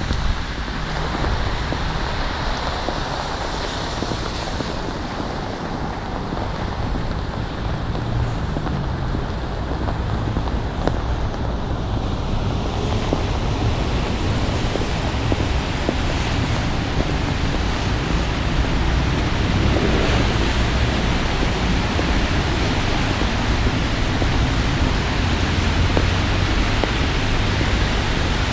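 Steady rushing outdoor noise with a strong low rumble: wind buffeting the microphone, with road traffic mixed in.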